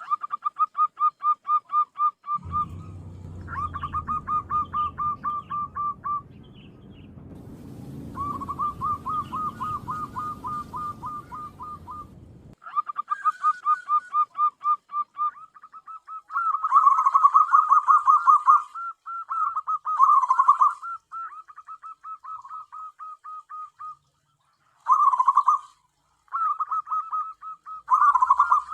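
Zebra doves (perkutut) calling in repeated bouts of rapid, short pitched notes, some bouts longer and louder than others. From about two seconds in until about twelve seconds, a low rumble runs underneath, and there are a few faint high chirps later on.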